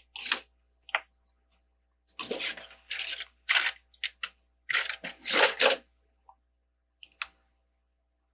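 Small plastic Lego pieces clattering and rustling as hands rummage through them, in several bursts, with a few single sharp clicks.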